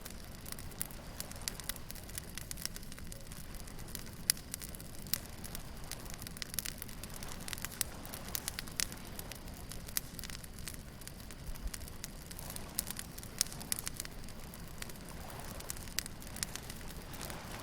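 Wood bonfire crackling, with irregular sharp pops and snaps, over a steady low rumble of surf.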